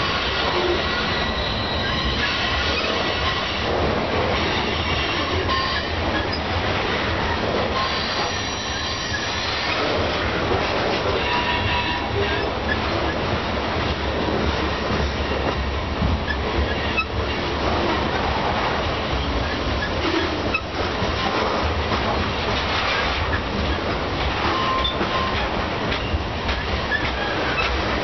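Covered grain hopper cars of a long freight train rolling past on a tight curve: a steady rumble and rattle of steel wheels on the rails, with short high-pitched wheel squeals now and then and occasional clicks.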